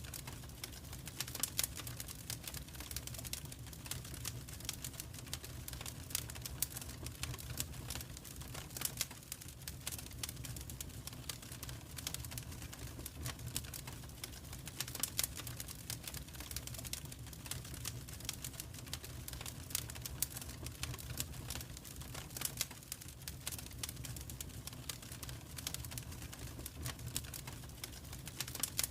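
Fire in a fireplace crackling, with many irregular sharp pops over a steady low rumble.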